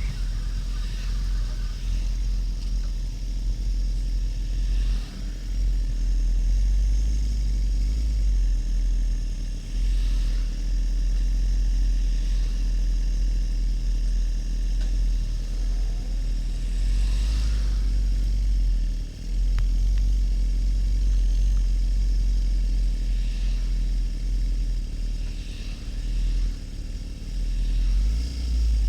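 Harley-Davidson XL1200N Nightster's V-twin running at cruise on the motorway, under heavy wind rumble on the camera microphone, with a few short dips and swells in level.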